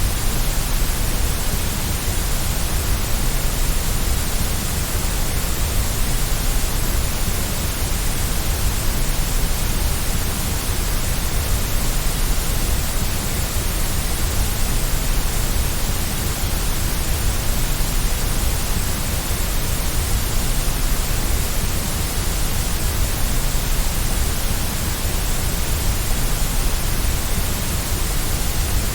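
Steady white noise for baby sleep: an even, unchanging hiss with a low rumble underneath and no rhythm or breaks.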